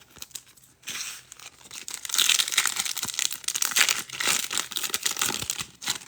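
Foil trading card pack wrapper being torn open and crinkled, a dense crackling that starts about a second in, grows louder, and stops just before the end.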